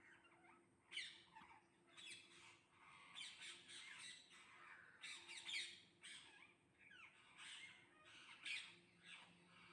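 A flock of parrots squawking, faint: many short, harsh calls overlapping, one after another.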